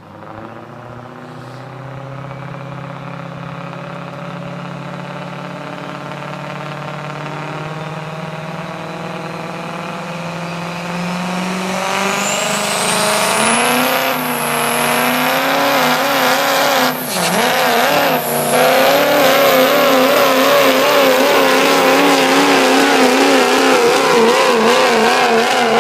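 Pulling truck's engine at full throttle under heavy load during a truck pull. The pitch and loudness climb steadily for about thirteen seconds, then hold high and waver, with two brief dips past the middle.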